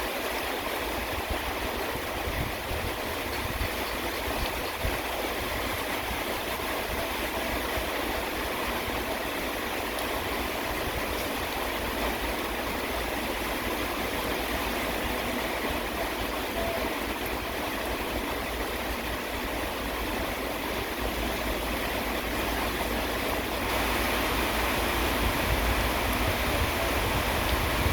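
Steady rain falling, with a low rumble underneath that grows a little louder near the end.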